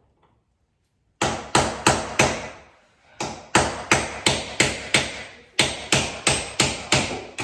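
Hammer striking a metal punch, driving the pins out of a transom window's hinges: a run of sharp, ringing metal-on-metal blows about three a second, starting about a second in and pausing briefly between groups.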